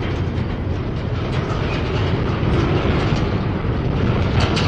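Double-stack intermodal well cars of a freight train rolling past close by: a steady rumble of steel wheels on rail, with a run of sharper clacks near the end.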